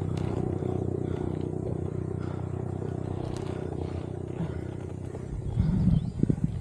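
A motor vehicle's engine running with a steady hum that slowly fades, with a few low thuds of wind on the microphone near the end.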